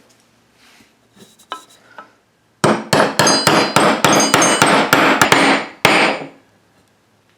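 A hammer tapping a piece into place: about a dozen quick, sharp blows at roughly four a second, starting about two and a half seconds in, with a ringing tone to each strike. A few lighter taps come just before.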